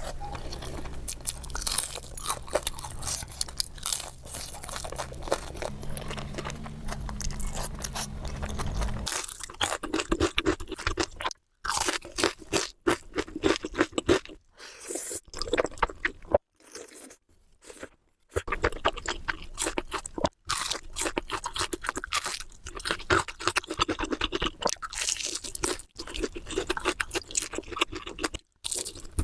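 Close-up crunching and chewing of panipuri, the crisp hollow puris cracking between the teeth in quick irregular crackles with wet chewing in between. A low steady hum sits under the first nine seconds or so, and after that the sound drops out abruptly to silence several times for a moment.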